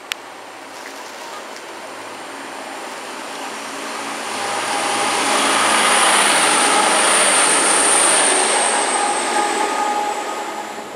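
A TransPennine Express multiple-unit train passing through the station at speed: the rumble of the train builds, peaks for several seconds with a high steady whine over it, then fades away.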